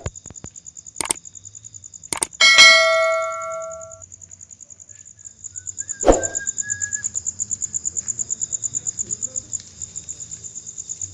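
A single metallic ding or clang about two and a half seconds in, ringing with several overtones and dying away over about a second and a half. Under it, a high, fast, even chirping of about five pulses a second goes on throughout, with sharp clicks shortly before the strike and a dull thump about six seconds in.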